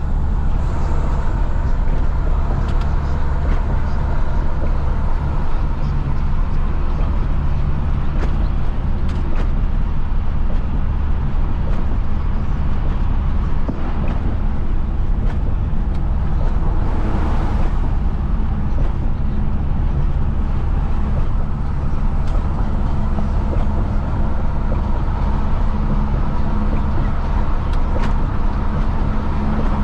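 Isuzu FRR90 truck's diesel engine running steadily on the road, a constant low drone with road noise, and a brief rushing sound about halfway through.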